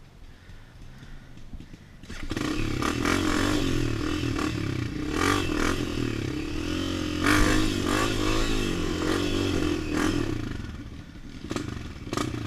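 Dirt bike engine running quietly, then from about two seconds in revving hard with the pitch rising and falling as it is ridden, over scattered clattering knocks. It eases off near the end.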